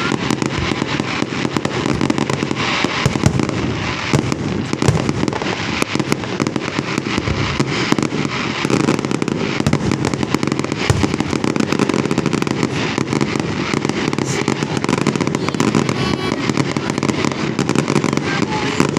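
Fireworks going off in a dense, unbroken barrage of overlapping bangs and crackles.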